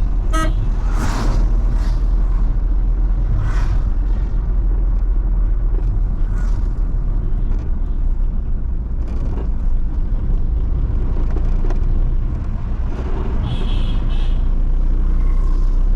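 A van driving along a road: a steady low rumble of engine and road noise, with a few short higher sounds over it near the start and again near the end.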